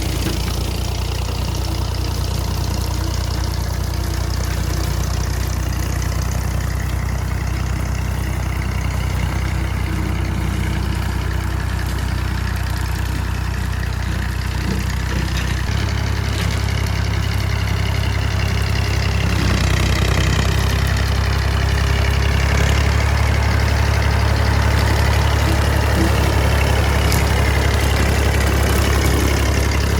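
Small tractor's engine running steadily with a large brush cutter mounted. Its low engine note changes about halfway through and the sound grows louder about two-thirds of the way in.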